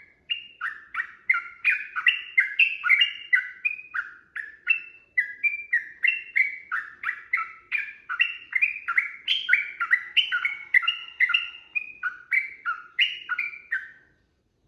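Sooty-headed bulbul (trucukan) singing a long unbroken run of short, falling whistled notes, about three a second, ending shortly before the close.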